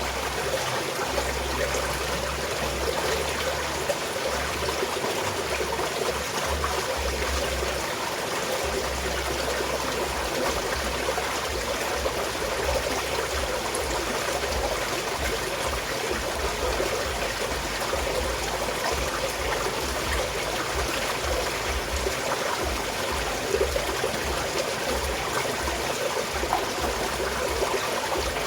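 Small mountain stream of water flowing and trickling steadily.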